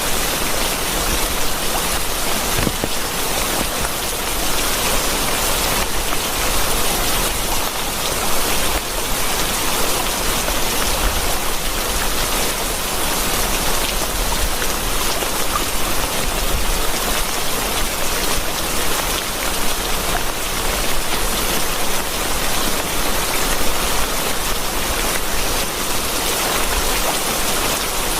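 Steady rain: a dense, even hiss of falling drops, with no thunder.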